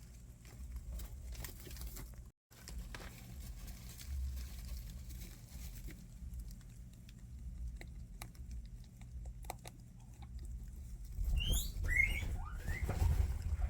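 Guinea pigs shuffling and pattering, with faint scattered clicks and rustles, then near the end a couple of short, high squeaks that glide up in pitch, over louder bumps.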